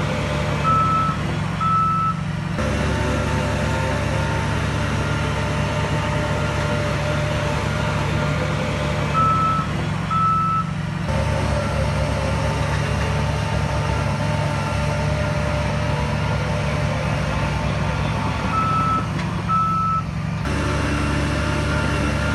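Heavy diesel earthmoving machine running steadily, its reversing alarm giving a pair of short beeps three times, about nine seconds apart; the engine note shifts just after each pair of beeps.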